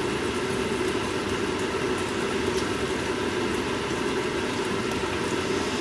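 Steady kitchen cooking noise: an even hum with a fine crackly hiss while sausages fry in a pan on the stove.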